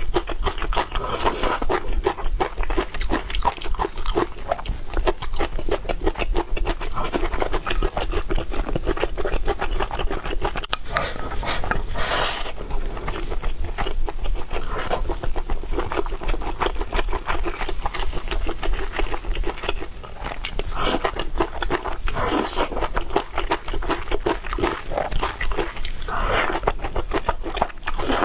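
Close-miked eating sounds: a person chewing and smacking food with many small wet clicks, with a few louder bites or scrapes along the way.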